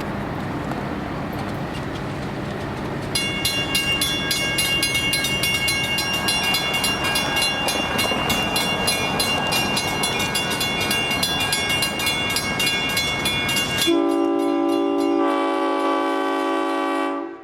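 Six-axle Alco diesel locomotive running as it pulls forward, then sounding a long multi-note air-horn blast from about three seconds in over its engine rumble. Near the end a shorter, cleaner horn chord sounds and cuts off suddenly.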